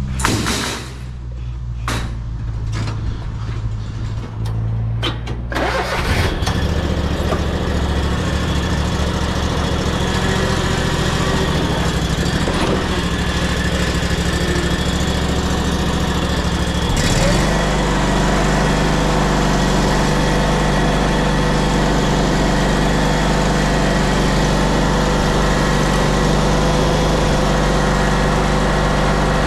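Ferris Z3X zero-turn mower's 37 hp engine running low with a few clicks, then stepping up about five seconds in to a louder, fuller running sound, and changing pitch again about 17 seconds in before running steadily.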